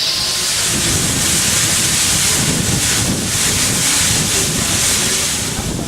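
Soviet L-class steam locomotive L-3055 pulling out, a loud steady rush of steam over a low rumble.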